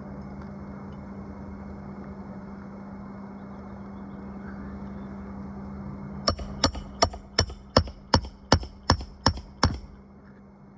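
Ten quick, evenly spaced hammer blows, a little under three a second, driving nails into a replacement roof shingle, starting about six seconds in.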